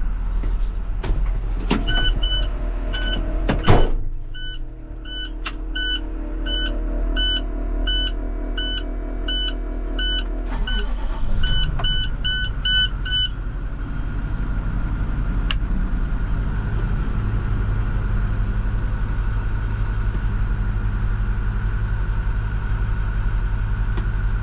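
Clicks and knocks of a truck cab being entered, then a dashboard warning chime beeping repeatedly with the key on. About eleven seconds in, the International TerraStar dump truck's diesel engine starts; the chime stops soon after and the engine settles into a steady idle.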